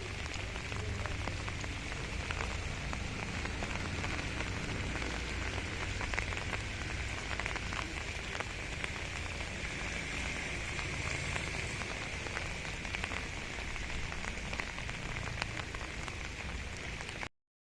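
Heavy rain falling steadily, an even hiss dotted with many individual drop ticks. It cuts off suddenly near the end.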